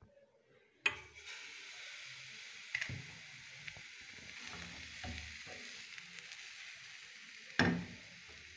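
Banana pancake batter sizzling as it is poured into hot oil in a frying pan: a steady hiss starts about a second in. A few knocks break it, the loudest near the end.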